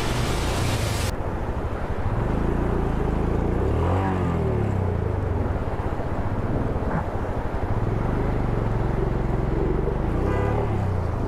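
Motorcycle engine running at low speed through deep floodwater, its pitch dipping and then rising again about four seconds in. A hissing rush stops abruptly about a second in.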